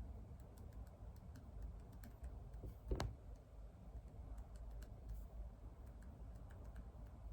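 Faint typing on a keyboard: irregular key clicks, with one louder knock about three seconds in.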